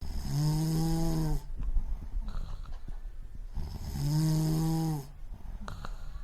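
A person snoring: two long, drawn-out snores about three seconds apart.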